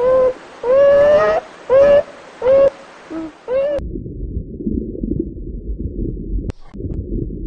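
A chicken calling: a run of about six short, pitched clucks. It then cuts off abruptly to a low, muffled rumble with two sharp clicks.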